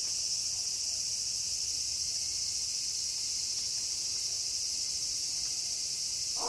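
Steady, unbroken high-pitched chirring of night insects, a continuous chorus with no howl or call over it.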